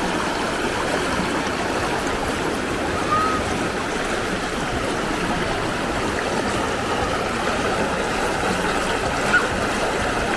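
River water flowing steadily over rocks, a constant rushing sound.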